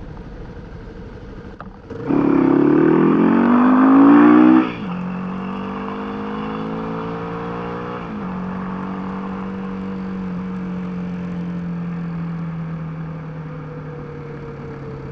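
Kawasaki KLX250SF supermoto's single-cylinder four-stroke engine running under way. It is low and quiet at first, then revs hard and rises in pitch as the throttle opens about two seconds in. It drops in pitch at an upshift near five seconds and again near eight, then settles into a steady cruise.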